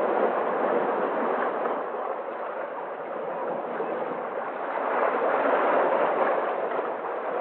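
Sea waves washing onto the shore in a steady rushing surf that eases off a few seconds in and then swells again.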